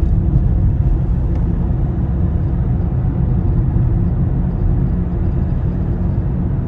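Steady low rumble of a diesel car driving along at road speed, heard from inside the cabin: engine and tyre noise.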